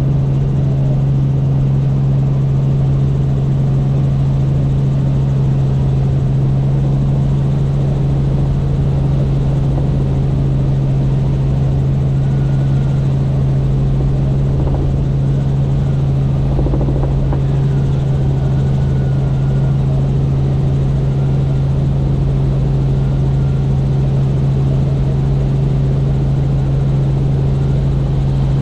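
Helicopter in steady flight: continuous rotor and engine noise with a strong, steady low hum.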